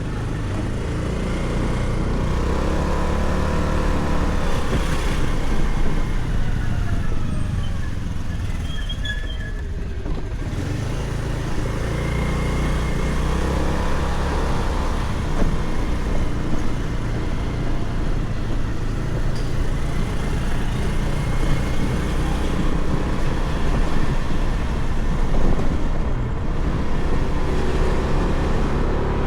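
Motorcycle engine running steadily while riding along city streets, its pitch rising and falling as the speed changes, with traffic sounds around it.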